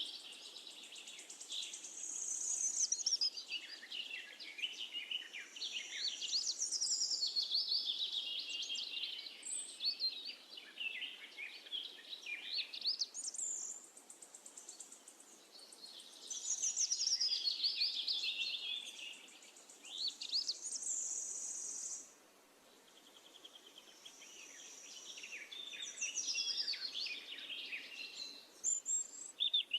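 Songbirds singing: repeated phrases of quick, high chirps and trills with short pauses between them, over a faint steady background hiss.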